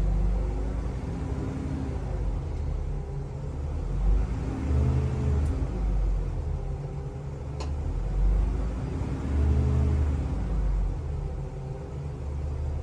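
Gasoline school bus engine idling, with a low rumble that rises and falls unevenly, while its air compressor builds brake air pressure toward 120 psi before cutting out.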